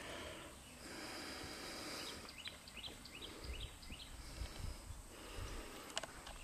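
Faint outdoor ambience with a bird giving a quick series of about seven high chirps about two and a half seconds in, and low rumbles in the background.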